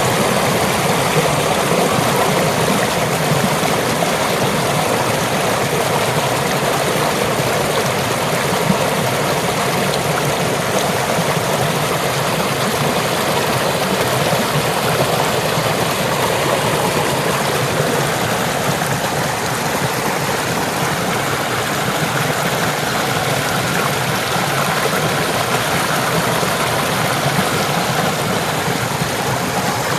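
Waterfall water rushing in a steady, unbroken roar of falling and running water.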